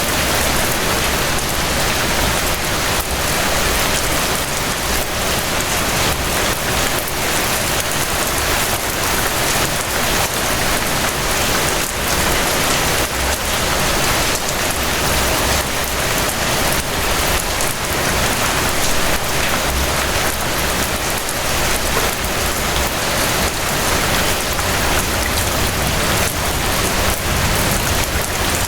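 Steady rain falling, an even hiss of countless drops striking a surface, holding at one level throughout.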